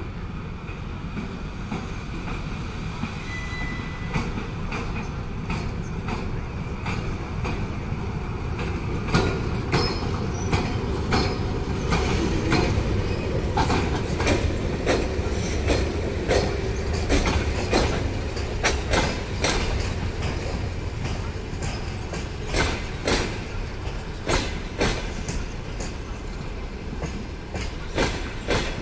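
A passenger train hauled by an EP1M electric locomotive rolling past along the platform. There is a steady rumble at first, and about a third of the way in the wheels start clacking over the rail joints in quick groups as the locomotive and coaches pass.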